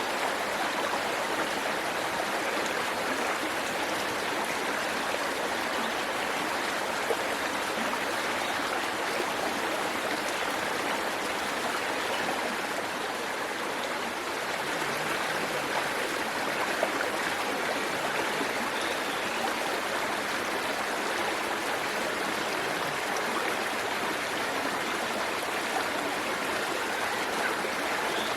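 Waterfall water rushing and splashing in a steady, even noise.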